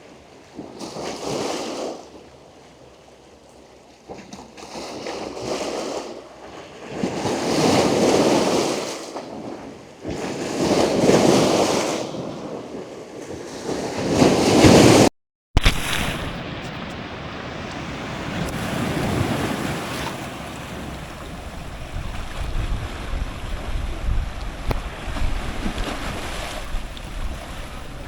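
Ocean surf washing in close to the microphone in surges every two to three seconds, each louder than the last. About halfway through, the audio cuts out for a moment. Afterwards the water becomes a steadier, duller rush with low rumble. The change is of the kind the uploader puts down to seawater flooding the wireless microphone receiver.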